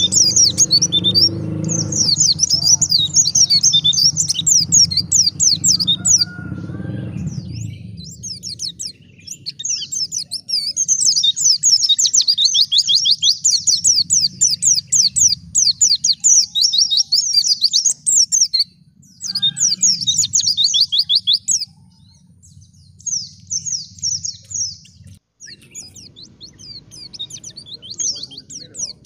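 White-eye (pleci) singing a fast, high twittering song in long runs of rapid notes, broken by brief pauses.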